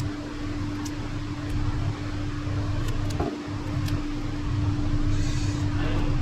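Steady mechanical hum with a constant low drone and rumble, broken by a few faint light clicks.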